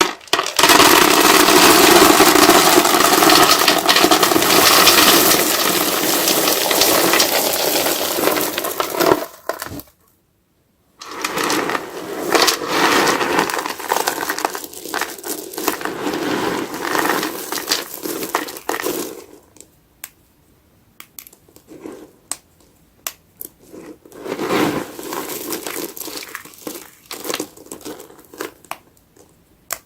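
Wet crackling and squishing of a soapy, foam-laden sponge being handled. Dense and steady at first, broken by a second of silence about ten seconds in, then thinning to scattered crackles and pops in the last third.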